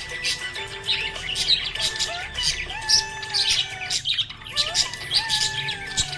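Budgerigars chirping: a dense run of short, high chirps several times a second, with a few warbling glides mixed in.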